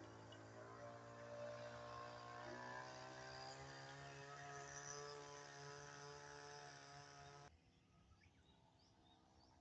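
Faint drone of a radio-controlled model seaplane's small glow engine in flight, its pitch shifting slightly as it flies. It cuts off suddenly near the end.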